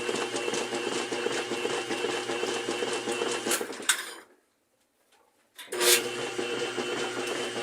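General Electric washing machine running its wash cycle, with freshly replaced bearings, seal and belt: a steady motor and transmission hum with fast, even ticking. It cuts out completely for about a second and a half just past the middle, then starts again.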